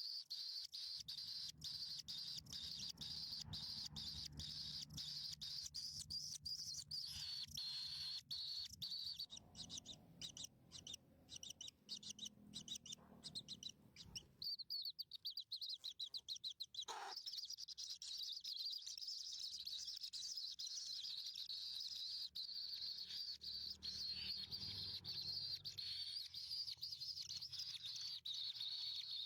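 Nestlings chirping in the nest: a dense, continuous run of rapid high-pitched chirps that thins out for a few seconds from about nine seconds in, then picks up again.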